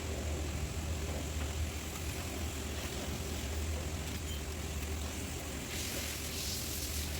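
A steady low mechanical hum from a running motor, like an engine idling, with a hiss coming up about six seconds in.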